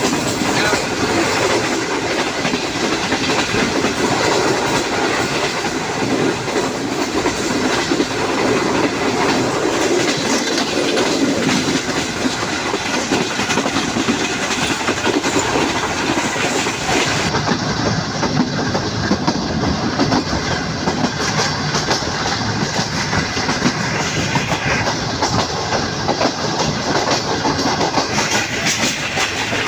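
Moving passenger train heard on board: a steady rumble of wheels on the rails with a clickety-clack over the rail joints.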